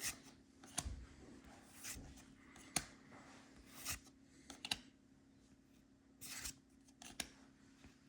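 Trading cards handled one at a time, each card slid off the stack with a short, faint swish, about one a second, with a slightly longer swish about six seconds in.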